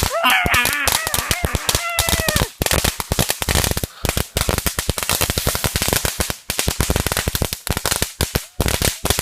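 A string of firecrackers going off in a rapid, irregular crackle of sharp pops, with a voice yelling over it for the first two seconds or so.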